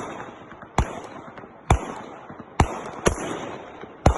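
AK-47 rifle firing single shots, five of them about a second apart, each with a trailing echo.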